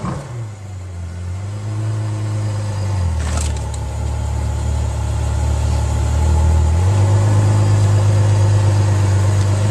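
A car engine running steadily with a low drone. Its pitch drops about three seconds in and rises again near seven seconds, and there is a brief knock at about three and a half seconds.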